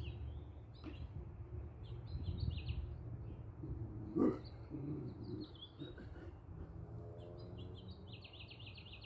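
Small birds chirping again and again, ending in a fast run of chirps near the end, over a low steady background rumble. A single short, louder sound that falls in pitch comes about four seconds in.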